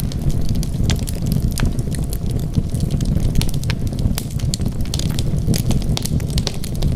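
Wood fire burning, with a steady low rumble and frequent sharp crackles and pops.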